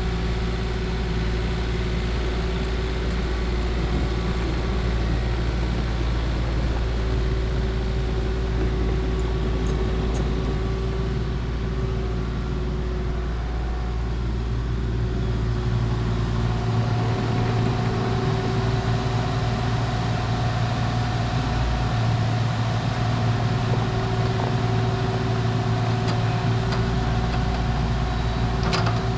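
A vehicle engine running steadily. Its tone shifts slightly about halfway through and then holds steady again.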